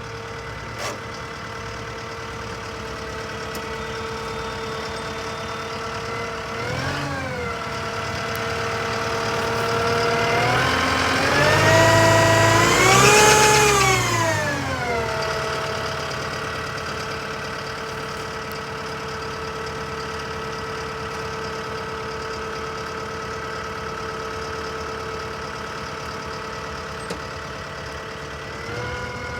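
Diesel engine of a 2014 Kubota M108S tractor idling steadily, with a quick blip of the throttle about seven seconds in. About halfway through it is revved up, held briefly at higher speed, then let back down to idle.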